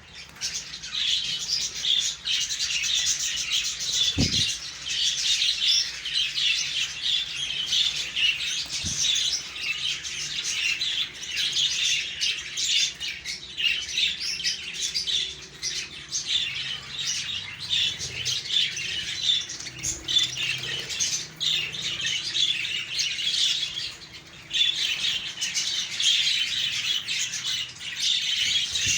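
Many budgerigars chattering and squawking together, a dense continuous flock chatter of short high calls. There is a brief low thump about four seconds in.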